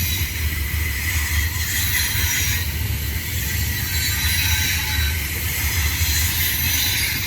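Double-stack container freight train rolling past, a steady rumble of wheels on rail with a faint high squeal of wheels above it.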